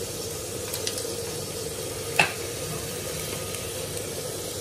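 Chicken masala sizzling steadily in a clay handi, over a faint steady hum. One sharp tap comes about two seconds in.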